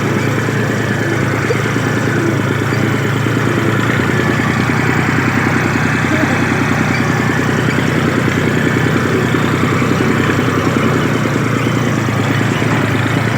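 Old tractor engine running steadily at an even speed.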